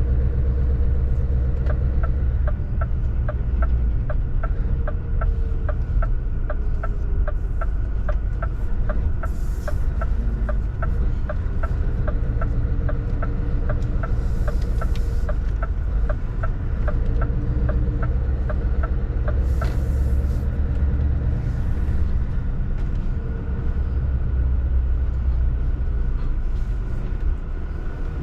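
Scania 770S truck's 16-litre V8 running on the road, a steady low rumble inside the cab. A regular light ticking, about two a second, runs through the first twenty seconds, and a few short hisses are heard.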